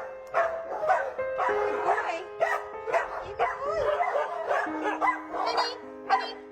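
Background music with a dog barking repeatedly over it.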